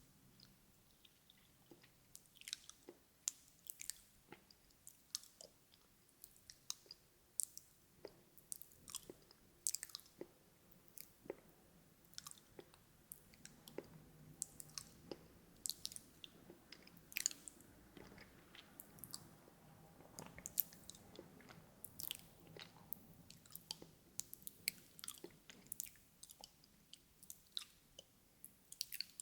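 Close-miked ASMR mouth sounds: wet lip smacks and tongue clicks in quick, irregular succession, a few every second, with chewing-like 'nom nom' movements.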